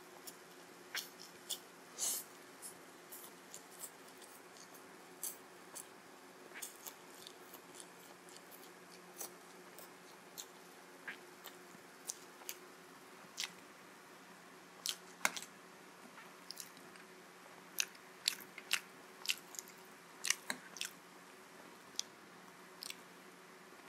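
Close-miked mouth sounds of a person eating chowmein noodles: chewing and wet lip smacks, heard as irregular sharp clicks that come thicker in the second half.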